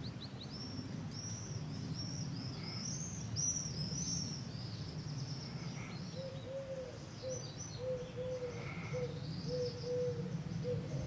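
Small birds chirping in a quick run of high notes during the first five seconds, followed by a series of short, lower calls repeating about twice a second, over a steady low background rumble.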